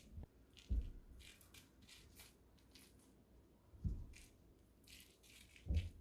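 Light rustling and rattling with three soft thumps: about a second in, near four seconds, and near the end.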